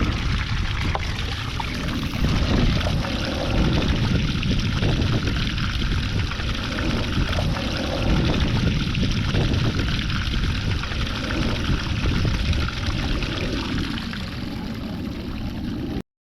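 Water pouring and running steadily, then cutting off abruptly near the end.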